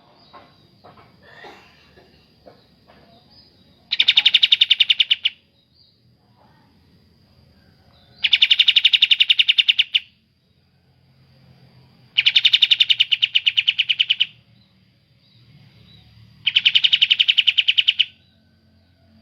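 Songbird calling in four bursts, each a rapid run of evenly repeated high notes lasting about one and a half to two seconds, spaced about four seconds apart. A faint low hum runs underneath.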